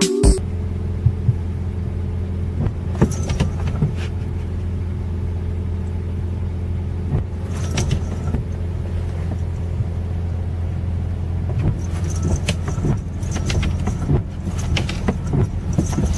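Steady low hum of a running motor, with scattered clicks and light rattles over it.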